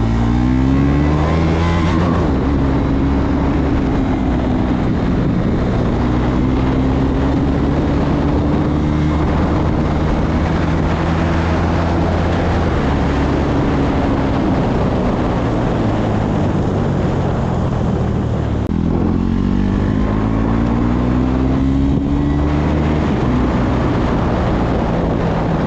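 KTM Duke 390's single-cylinder engine under way: its pitch climbs over the first two seconds, holds at a steady cruise, drops briefly about eighteen seconds in, then climbs again. A steady rushing noise runs underneath.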